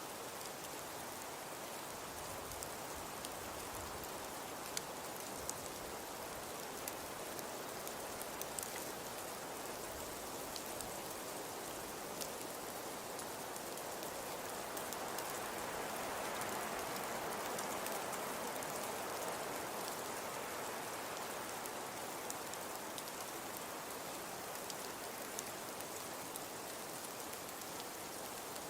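Crackling fireplace: a steady soft hiss of burning wood with scattered small pops and crackles, swelling a little in the middle.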